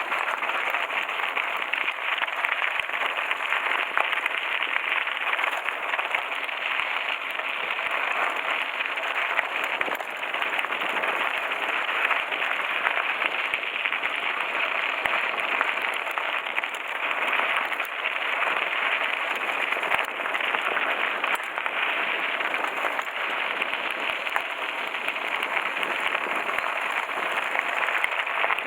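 Mountain bike's tyres rolling downhill over a loose-gravel road, a steady crunching noise.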